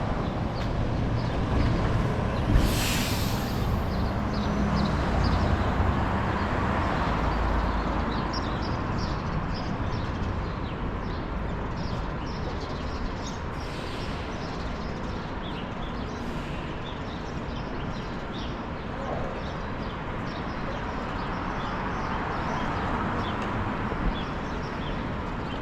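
Outdoor ambience: a steady low rumble with many short, high bird chirps scattered through it, and a brief louder hiss about two and a half seconds in.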